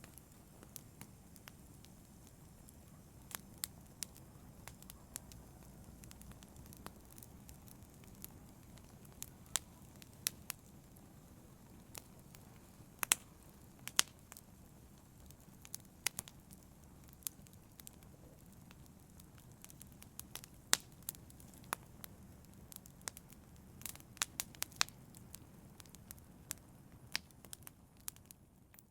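Wood fire burning in a fireplace: irregular sharp crackles and pops, several a second at times, over a steady low rumble of the flames.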